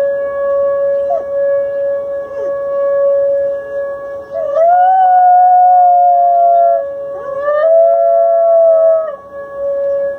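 A dog howling: short gliding cries, then two long howls, each rising and then held for about two seconds. Under them runs a steady, unbroken droning tone.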